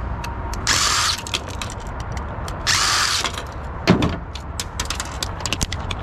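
Cordless drill/driver run in two short bursts, about a second and three seconds in, taking the screws out of a printer's sheet-metal panel. Sharp metallic clicks run between the bursts, and there is a louder thump about four seconds in.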